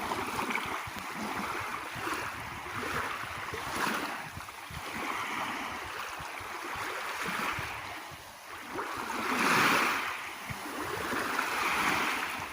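Water washing in small waves, an even rushing that swells and fades every second or two, with a louder surge about three-quarters of the way through.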